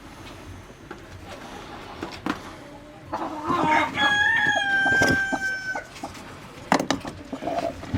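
A rooster crowing once, a single long call held for about two seconds and sagging slightly at the end, with chickens clucking around it and a couple of sharp knocks near the end.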